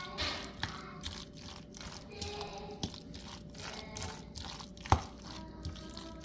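Scattered light clicks and taps of utensils and containers being handled while seasoning a salad, with one sharper knock about five seconds in, over faint background music.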